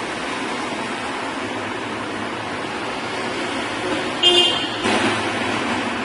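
Steady street traffic noise with a brief horn toot about four seconds in, followed shortly by a short noisy burst.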